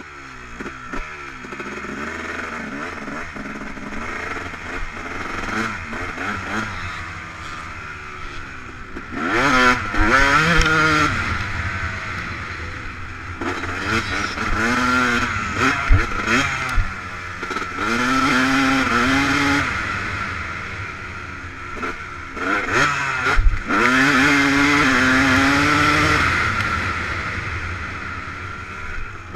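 Yamaha YZ250 two-stroke motocross bike engine revving up and down as it is ridden, its pitch climbing and dropping through the gears, with four loud spells of hard acceleration and a couple of sharp knocks.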